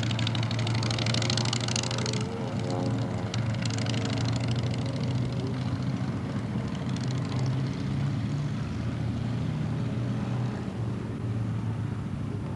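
Propeller airplane engine running steadily with a low drone, and a harsh hiss over it for about the first two seconds.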